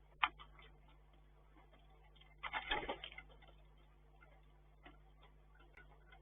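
Middle spotted woodpecker pecking at a bird feeder. One sharp tap comes about a quarter second in, then a quick run of taps around the middle, with faint scattered ticks between.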